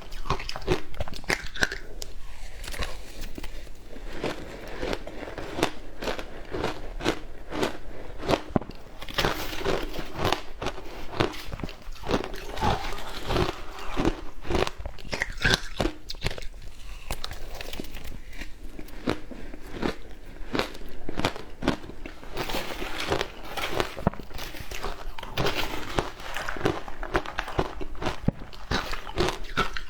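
Frozen matcha ice being bitten and chewed: many sharp crunches and cracks in quick, irregular succession.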